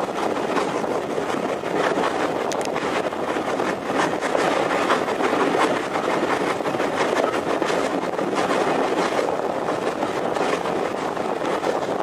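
Vintage railway carriages behind a steam locomotive, heard from on board as they run along the track: a steady noise of wheels on rails with frequent short, sharp clicks and knocks.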